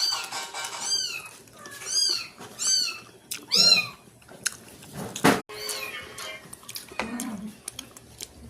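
A cat meowing four times in short rising-and-falling calls, followed a little past five seconds in by a single sharp knock.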